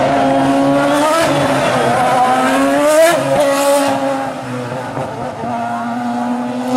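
Ferrari Formula One car's engine at high revs, its pitch climbing sharply and then falling again several times as it is revved and lifted off. It goes quieter for a couple of seconds past the middle and climbs again near the end.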